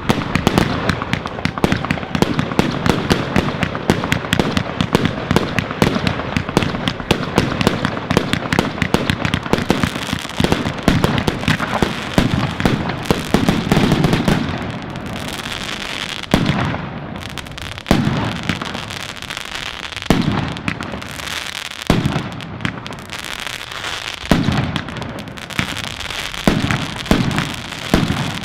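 Fireworks and firecrackers going off without pause: a dense, continuous crackle of many small bangs for about the first half, then separate louder bangs a second or two apart over a thinner crackle.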